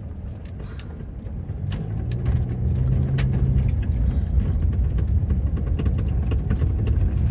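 Vehicle engine and road rumble on a dirt road, growing louder about a second and a half in as it drives on, with scattered sharp crackles and ticks.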